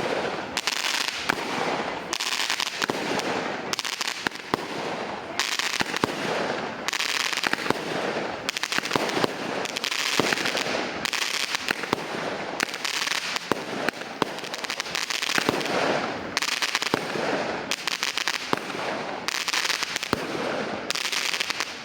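A 16-shot 'Salsa' firework cake firing shot after shot, about one every second and a half. Each shot ends in a dense crackle.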